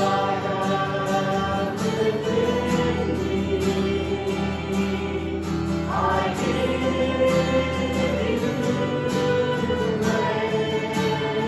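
A congregation and worship band singing a worship song with guitar accompaniment, in long held notes; a new sung phrase begins about halfway through.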